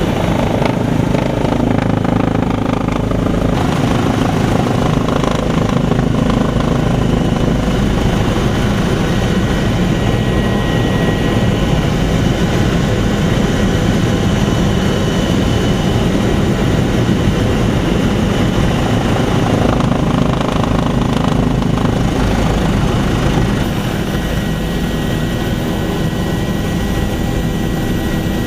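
Helicopter engines and rotor running in a loud, steady drone, easing slightly in level near the end.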